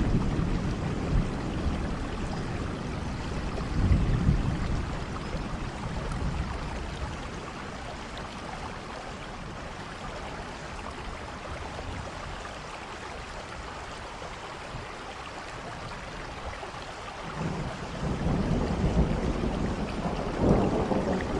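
Steady rain falling, with low rumbles of thunder about four seconds in and again over the last few seconds; the middle stretch is quieter rain alone.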